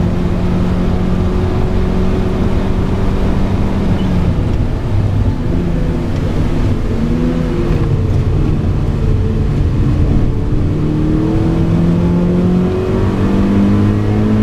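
Mazda MX-5 NB's four-cylinder engine under hard track driving, heard from inside the cabin: revs held steady for about four seconds, then dipping and rising through a corner, then a long climb in revs near the end.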